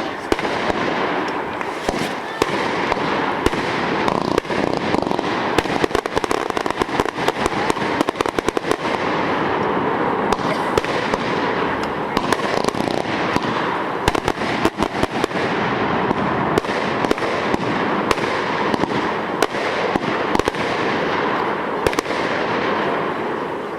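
A 225-shot consumer repeater cake firing continuously: a dense, rapid stream of shots and bursts over a constant crackling hiss.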